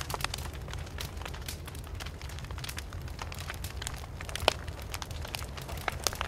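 Wood fire crackling, with dense irregular snaps and a sharper pop about four and a half seconds in, over a steady low rumble.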